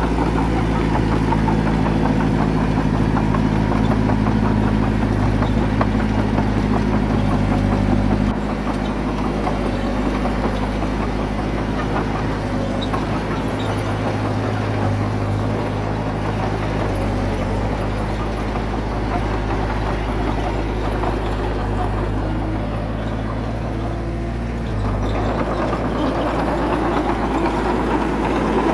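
Diesel engine of heavy earthmoving machinery running steadily, with a slight drop in level about eight seconds in and a rise again near the end.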